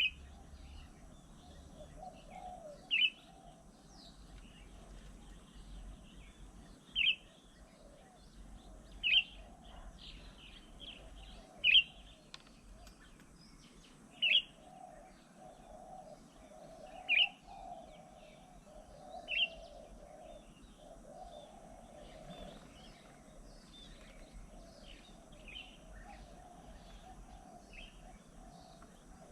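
Wild birds calling. One loud, short, sharp call repeats eight times, every two to three seconds, and stops about two-thirds of the way through, over fainter chirping from other birds.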